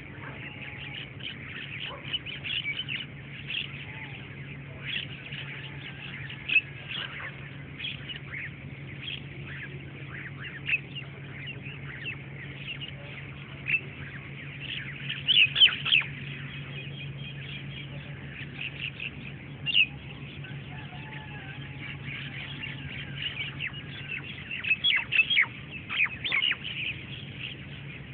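Many birds calling in short, sharp chirps and squawks, some in quick clusters, over a steady low hum.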